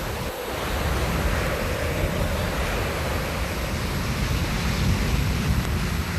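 Steady rushing noise of wind and sea with a low rumble: a cartoon's ocean ambience.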